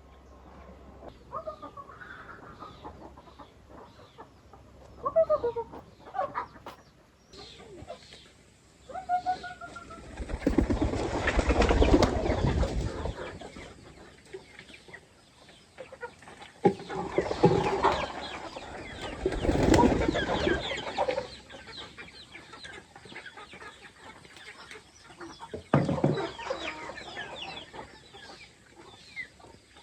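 Chickens clucking, with short pitched calls in the first few seconds. Three louder stretches of rustling noise break in, one about ten seconds in, one near the middle and a brief one near the end.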